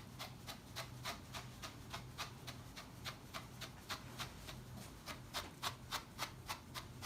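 Scissors snipping over and over in a steady rhythm, about three cuts a second, likely cutting through wig hair.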